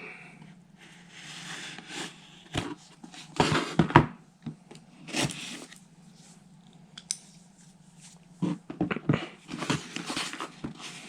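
Product packaging being cut and torn open by hand: irregular scraping and tearing with sharp clicks and rustles of packing material, in several short spells with pauses between.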